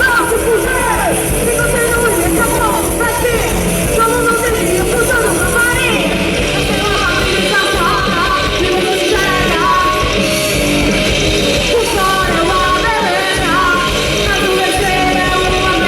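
Live rock band playing loud, with a voice singing over the band; the sound gets brighter and fuller about six seconds in.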